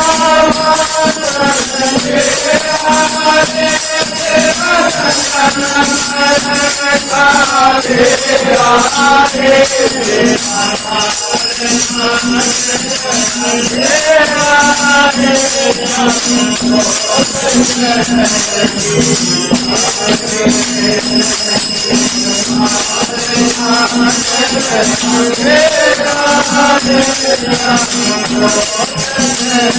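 Devotional bhajan music: a melody line that bends in pitch over a steady drone, with constant jingling hand percussion.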